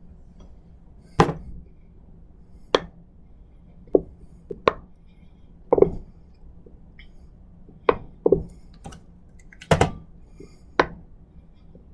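About ten sharp knocks and clinks of a mustard container and utensil against a bowl, irregularly spaced a second or so apart, as the mustard is emptied into the bowl.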